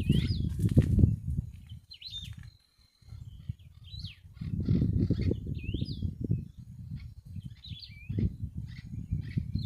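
Small birds chirping repeatedly with short rising and falling calls, over a louder low rumbling noise on the microphone that comes and goes, dropping away briefly about three seconds in.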